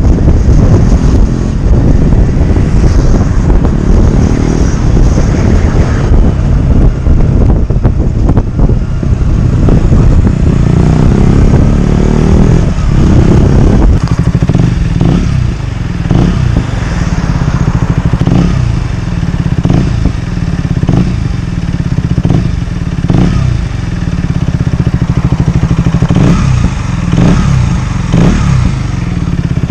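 KTM Duke 125's single-cylinder four-stroke engine through a GPR exhaust with the dB killer removed. It runs at higher revs for the first half, then drops to a steady idle about halfway through, broken by short throttle blips about every second or so.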